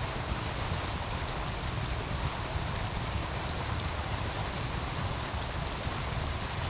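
Wood fire crackling, with scattered sharp pops, over the steady rush of running meltwater. A low rumble sits under it throughout.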